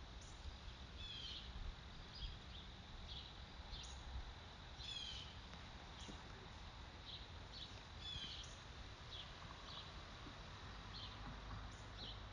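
Faint outdoor ambience of birds chirping: short, high chirps every second or so, a few in quick falling runs, over a steady low rumble.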